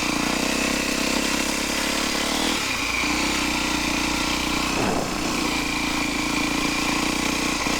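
Motocross dirt bike engine idling steadily.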